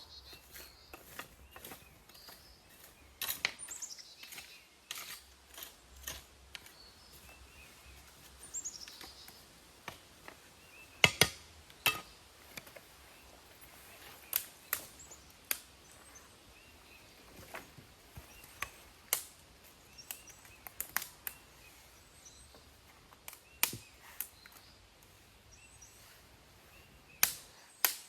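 Sharp, irregular snaps and knocks of wood, one to two seconds apart and loudest about eleven and twelve seconds in, with a couple of faint falling bird chirps in the background.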